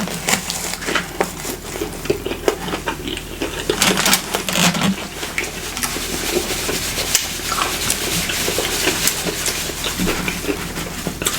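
Close-miked chewing of a fried salmon sandwich: continuous crunching and wet mouth sounds made up of many small crackles and clicks.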